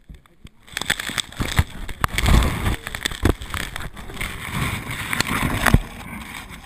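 Off-road motorcycle being ridden over rough ground: rough engine and wind noise mixed with knocks and jolts. It starts about a second in and drops away near the end.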